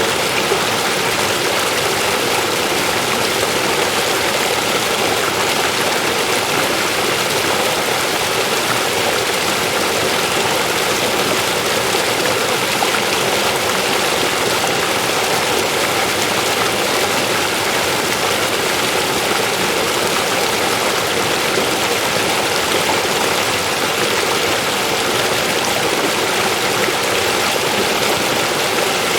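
River water flowing over rocks: a steady, unbroken rushing.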